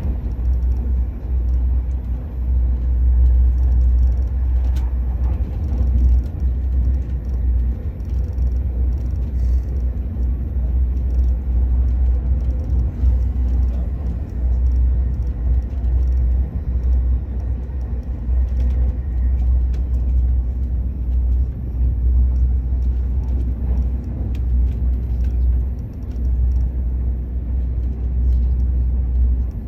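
Steady low rumble of a high-speed train running at speed, heard from inside the passenger carriage.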